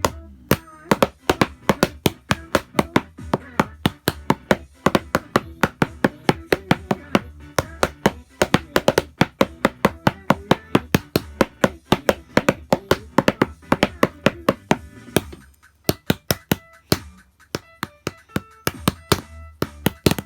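Sharp struck-percussion hits in a fast rhythm played along to a song's backing track with singing. About fifteen seconds in, the backing drops away and the hits become sparser.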